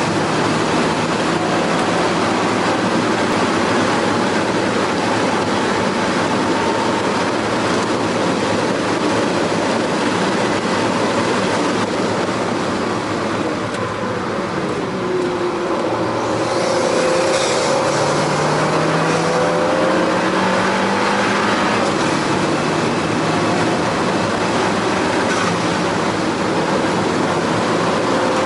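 Alfa Romeo 4C's turbocharged 1.7-litre four-cylinder engine heard from inside the cabin at track speed, under heavy road and wind noise. It eases off for a corner about halfway through, then pulls at full throttle on boost with the revs climbing.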